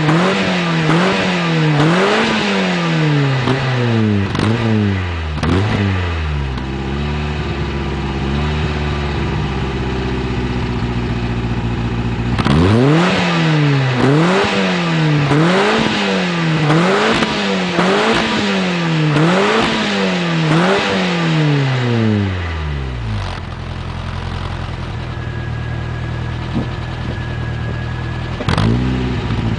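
Ford Escort XR3i four-cylinder engine through a Supersprint exhaust silencer, revved in quick blips about once a second and settling to idle between two runs of revs. The exhaust note is a little deeper than the stock system.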